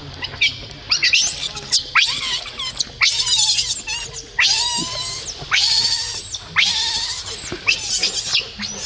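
Baby monkey crying: a run of about eight high-pitched, screeching cries, each under a second long and coming one after another.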